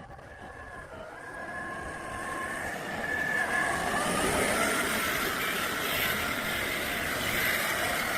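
1/5-scale RC crawler truck running, a whine that drifts slowly in pitch and grows louder over the first few seconds, then holds steady.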